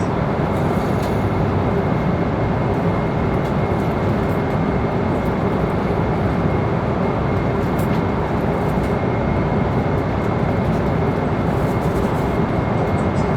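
Airliner passenger cabin in flight: a steady, even rush of engine and airflow noise, with a faint high steady tone running through it.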